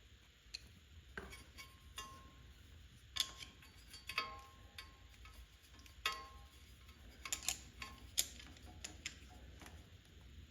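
Small metal tools and parts being handled on a workbench: about a dozen irregular sharp clicks and clinks, some with a brief metallic ring.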